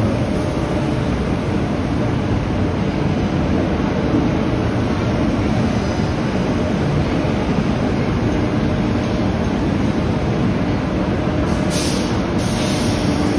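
Queensland Rail electric multiple-unit train at a station platform: a steady low rumble and hum, with two short hisses of air about twelve seconds in.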